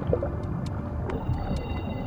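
Underwater ambience: a steady low rumbling wash with scattered sharp clicks, and faint steady high tones joining about a second in.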